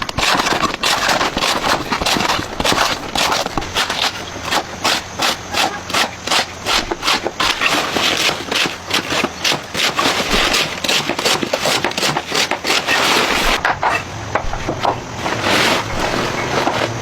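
Rapid, rhythmic rubbing strokes on wood, several a second, with the texture changing near the end.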